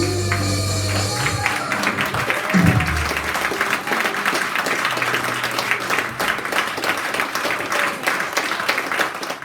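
A live band's final chord rings out, then an audience claps for about eight seconds, stopping abruptly at a cut.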